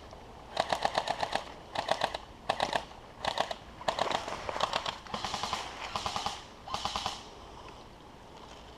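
Airsoft gun being reloaded: rapid mechanical clicking in a series of short bursts, which stop about seven seconds in.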